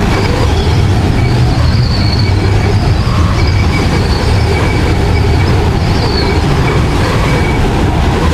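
Strong storm wind blowing and buffeting the microphone: a loud, steady rumbling rush, with faint high whistling tones coming and going.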